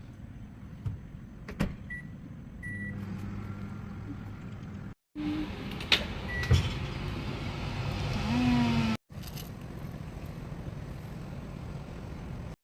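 Short electronic beeps from a built-in kitchen appliance's touch-control panel, then the steady low hum of the appliance running, with a few clicks and another beep after a cut.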